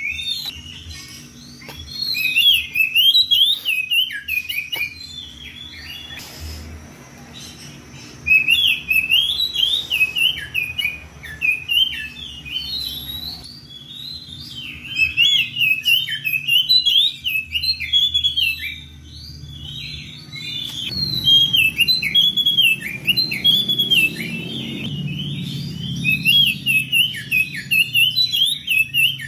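Oriental magpie-robin (kacer) singing full, loud song: fast, varied whistled phrases in bouts of a few seconds with short pauses between them, the open territorial song used to challenge a rival.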